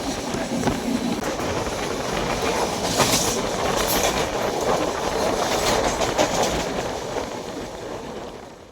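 Passenger train running along the track, a steady rumble with the wheels clattering over rail joints, fading out near the end.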